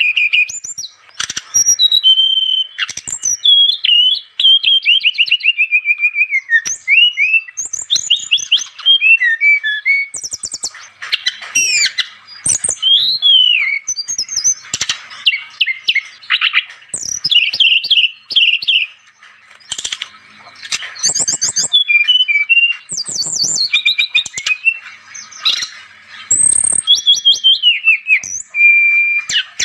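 A brown-chested jungle flycatcher (SRDC) singing a rapid, varied song of clear whistles, quick trills and chirps, with barely any pause between phrases.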